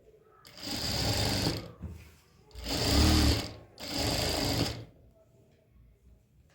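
Sewing machine stitching in three short runs of about a second each, stopping briefly between them.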